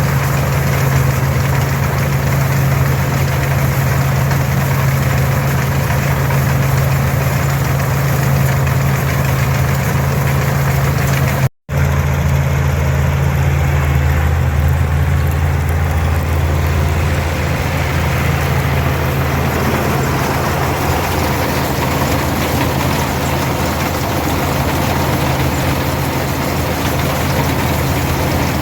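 Farmall 460 diesel tractor with its 282 diesel engine pulling and driving an International 82 pull-type combine, running steadily under harvesting load, with one momentary break in the sound partway through.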